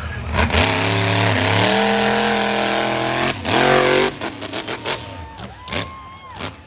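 Monster truck engine at high revs, its pitch climbing and holding, then surging once more before it drops away about four seconds in; a few sharp knocks follow.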